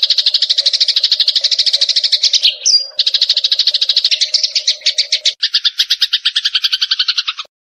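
Eurasian tree sparrows (burung gereja) chattering in a fast, even run of chirps, about ten a second, used as a lure call. About five seconds in the chirps change to a lower, two-toned run, then the sound stops abruptly near the end.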